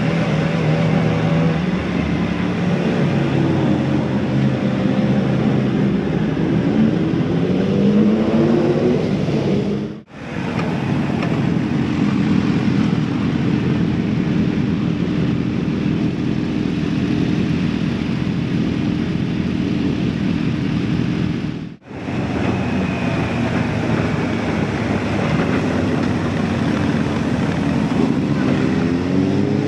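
Motorcycle engine and exhaust heard from on board while riding, pitch climbing as it revs up through the gears, then holding steady at cruise under a noisy haze. The sound breaks off sharply twice, about ten and twenty-two seconds in.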